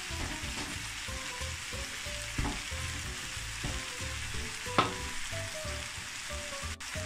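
Chicken sizzling as it fries in a pan while a wooden spatula stirs and chops at it to break the pieces up, with a few knocks of the spatula against the pan, the sharpest about five seconds in.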